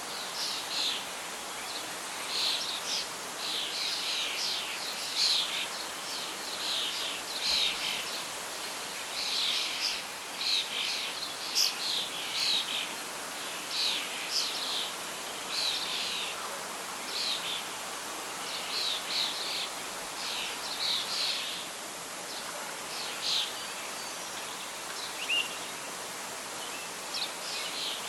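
Birds singing with repeated short high chirps over a steady hiss of wind and rustling leaves; the chirping thins out over the last few seconds.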